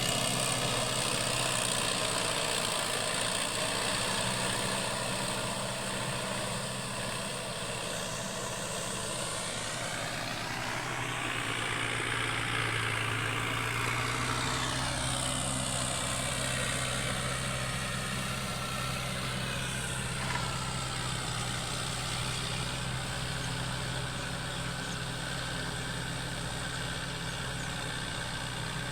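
Hindustan 60 four-wheel-drive tractor's diesel engine running steadily while pulling a rotavator, its note shifting up and back down midway.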